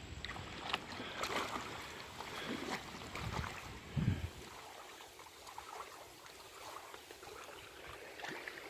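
Water splashing and sloshing at the river's edge as a hooked catfish thrashes near the surface, in irregular bursts, with one louder dull thump about four seconds in and quieter water afterwards.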